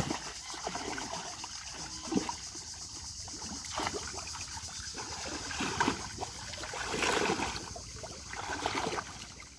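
Shallow pond water splashing and sloshing in irregular bursts as people wade and grope through it by hand.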